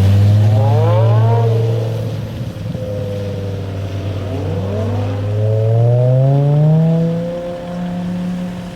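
BMW M5's 5.0-litre V10 engine, breathing through a Botter aftermarket exhaust, being revved. Its note rises and falls, then climbs higher about six seconds in and holds there.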